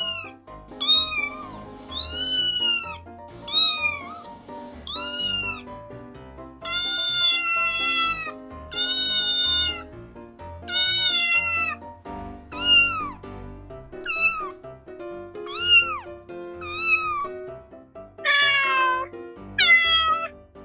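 Domestic cat meowing about a dozen times, some meows short and some drawn out, over soft background music.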